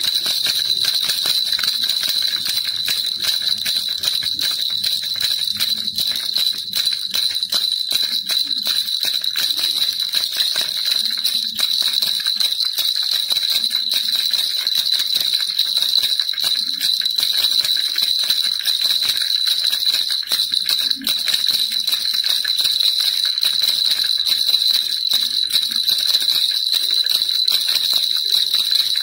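Baby rattle shaken without pause, a dense steady jingling of many small strikes over a constant high ring.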